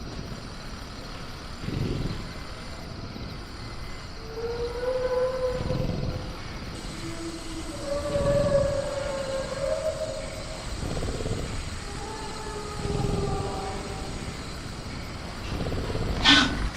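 Sound-design dinosaur calls: a series of long, drawn-out pitched calls, one after another from about four seconds in, over a jungle ambience with low thuds every couple of seconds. A sharp, loud sound breaks in just before the end.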